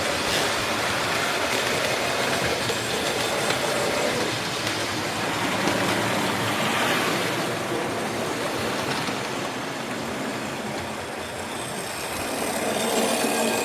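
Several model railway trains running on the layout at once: a steady noise of locomotive motors and wheels on the track.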